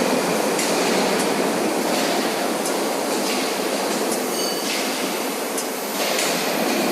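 Steady industrial machine noise from an H-beam CNC drilling line, with short hissing surges every second or so and a brief high-pitched whine about four and a half seconds in.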